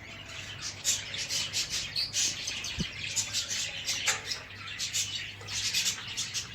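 Many small ornamental cage birds chirping, short high chirps overlapping one after another without a break.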